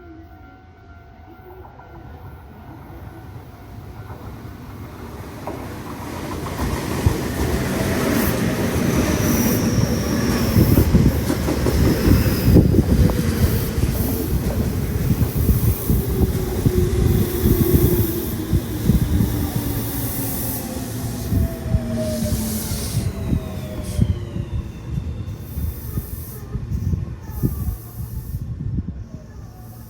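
Tobu Tojo Line electric train running into the station: the rumble of wheels on rails builds over several seconds, then the motor tones slide slowly down in pitch as the train brakes, with high wheel squeal and hiss while it is loudest, fading as it slows.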